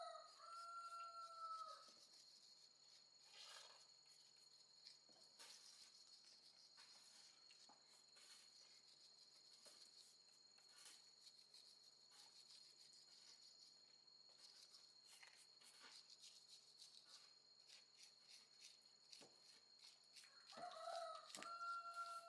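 Rooster crowing twice, faintly: one long crow at the start and another near the end, with a steady high-pitched tone underneath.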